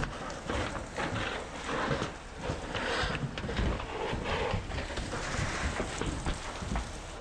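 Irregular scraping and knocking of firefighters pulling apart burnt house debris and siding, with wind rumbling on the microphone.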